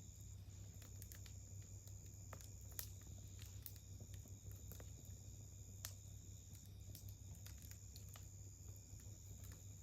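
Wood campfire crackling faintly: sparse small pops and snaps, about one a second, over a steady high-pitched whine and a low hum.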